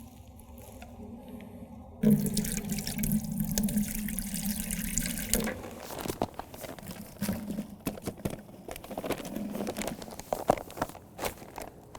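Acrylic additive and cement-based texture mix being combined in a bucket: liquid pours for a few seconds starting about two seconds in, then the thick, pancake-batter-like slurry is stirred with irregular wet sloshing and scraping.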